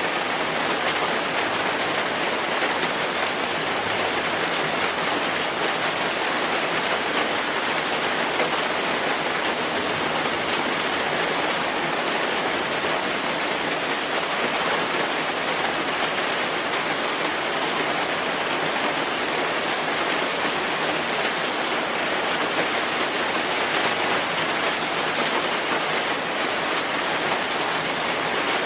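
Steady rainfall, an even hiss of rain on a surface with fine drop patter and no change throughout.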